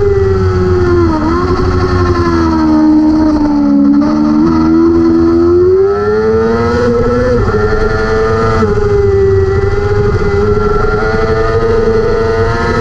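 A 600cc Superbike-class racing motorcycle engine at high revs. The pitch drops about a second in and stays lower for a few seconds, then climbs again around six seconds in and holds high.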